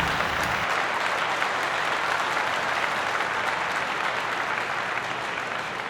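Large crowd applauding steadily, easing off slightly near the end.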